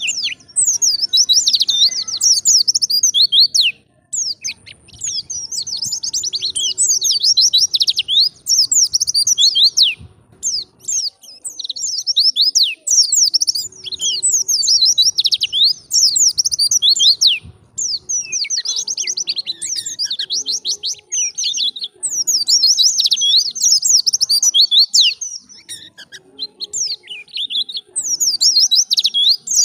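A wild white-eye (pleci) singing vigorously: rapid, high-pitched twittering warbles in phrases of a few seconds each, separated by short breaks.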